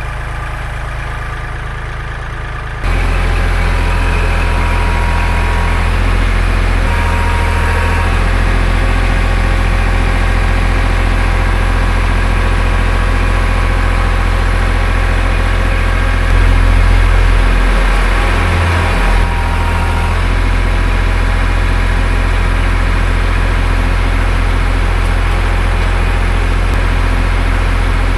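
An engine running steadily, stepping up to a louder level about three seconds in and swelling briefly a little past the middle.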